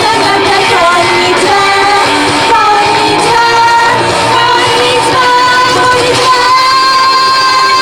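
Live J-pop song: female voices singing over full music, holding one long note near the end.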